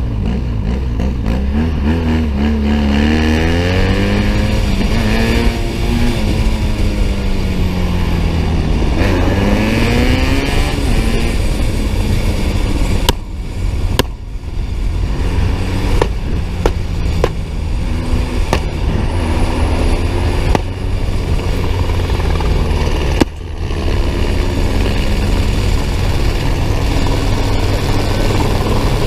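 Police motorcycle engine running hard at speed, its pitch falling and rising as the rider shifts and works the throttle, with several sharp clicks in the second half.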